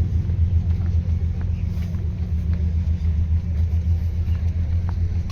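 A car engine idling close by: a steady low rumble.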